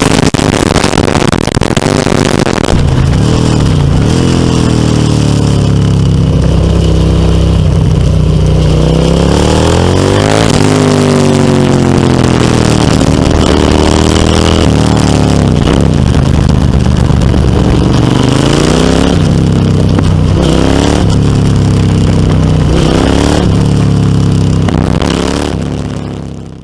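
Suzuki SV650's V-twin engine running loud through a MIVV Storm Oval slip-on exhaust, its pitch rising and falling again and again as the revs change. The sound fades out just before the end.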